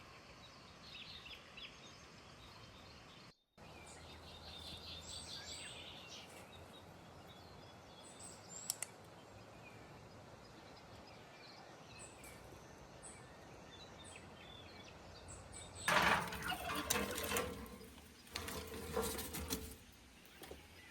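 Quiet rural outdoor ambience with scattered short bird chirps. Near the end comes a run of louder knocks and rustling, the loudest part.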